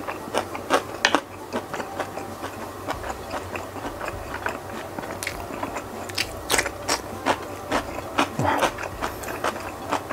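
Close-miked chewing: irregular, quick mouth clicks and smacks of a man eating. About six seconds in there are a few sharper bites into a cucumber slice.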